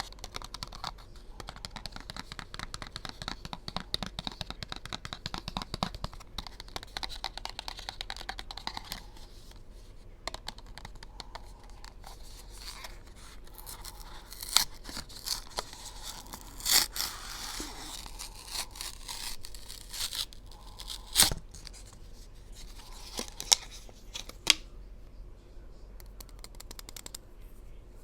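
Gel pen packaging being handled and opened up close: dense, rapid scratching and tapping for the first nine seconds or so, then rustling with several sharp clicks and snaps in the second half.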